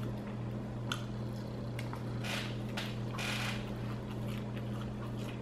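Chewing a mouthful of Philly cheesesteak sandwich: a few soft, wet mouth sounds over a steady low hum.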